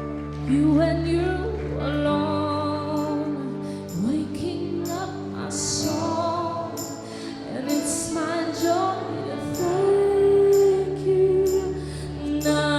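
Live worship music: a woman singing long held notes with vibrato over sustained keyboard chords, with light cymbal ticks keeping time.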